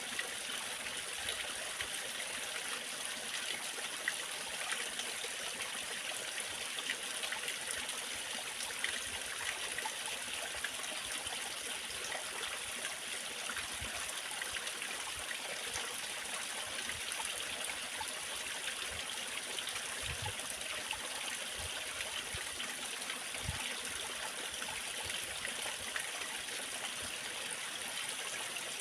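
Small waterfall, water cascading and splashing in a steady rush.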